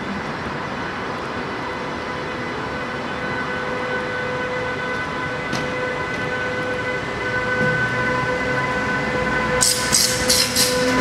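DB Class 101 electric locomotive moving off, its traction equipment giving a steady whine of several held tones over running noise that slowly grows louder. Near the end comes a quick run of sharp clicks.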